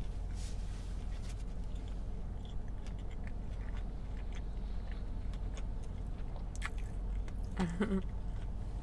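A person chewing a mouthful of taco up close, with faint scattered wet mouth clicks, over a steady low hum. A brief hummed voice sound comes near the end.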